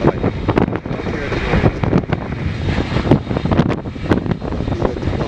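Gusty wind buffeting the microphone in irregular bumps and thuds, over the low rumble of a jet airliner's engines.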